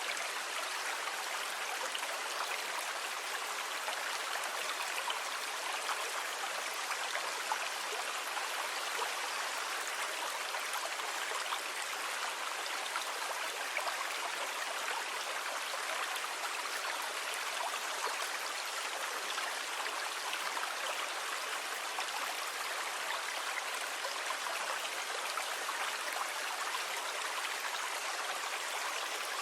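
Sea water: a steady, even rush of water with no separate waves rising or breaking.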